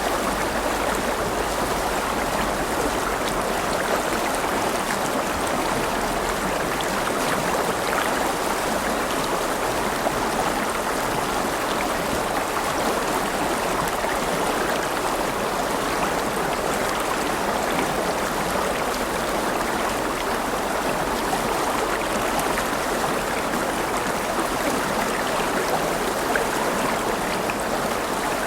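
River water flowing steadily over stones, a continuous rushing babble with no pauses.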